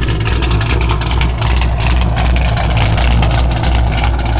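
A car with a loud aftermarket exhaust idling close by, a steady deep rumble.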